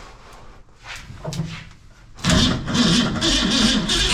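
The V8 engine swapped into a 1964 Ford Econoline van starting: it turns over suddenly about two seconds in, then catches and runs with a deep, steady sound toward the end.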